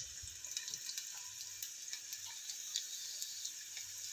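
Chopped red onion and garlic sizzling in hot oil in a frying pan: a steady high hiss with scattered small crackles.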